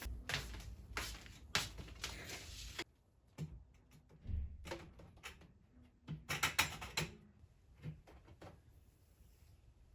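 Knocks and clatter of household objects being handled indoors: a quick run of knocks for the first three seconds or so, a few single knocks, then another burst of clatter about six to seven seconds in.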